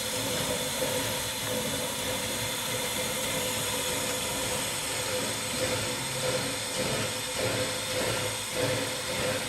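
Narrow-gauge steam locomotive standing and hissing steam, with a steady tone running under the hiss. From about halfway through, soft regular beats start, roughly two a second.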